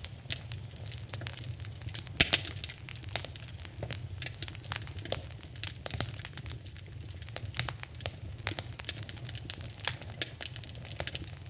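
Wood fire in a fireplace crackling, with irregular sharp pops and snaps, the loudest about two seconds in, over a steady low hum.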